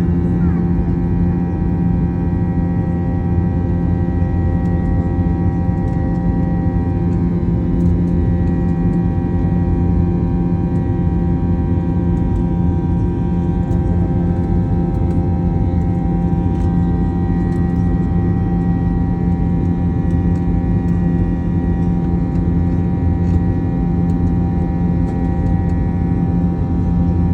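Jet airliner's engines running at steady takeoff power: a loud, even rumble with several steady tones held through it.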